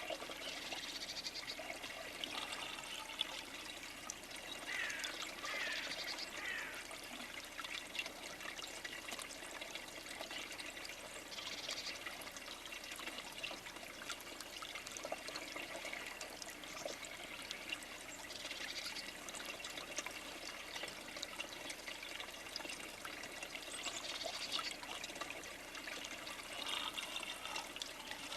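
Steady trickling water, with short bird chirps several times over it, including a few quick gliding calls about a fifth of the way in.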